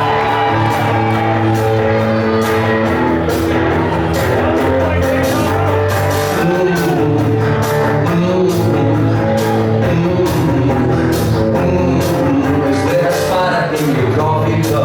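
Live rock band playing a song, with guitars and bass over drums keeping a steady beat.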